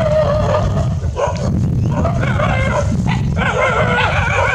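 Black drongo nestlings calling repeatedly in wavering, whiny phrases, typical of begging for food at the nest. A steady low rumble runs underneath.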